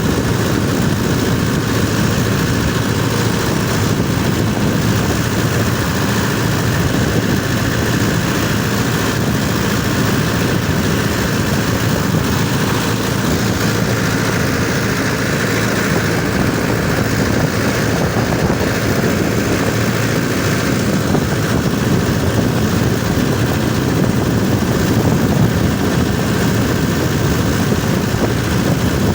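Mahindra Yuvo 575 DI 4WD tractor's diesel engine running steadily and loudly.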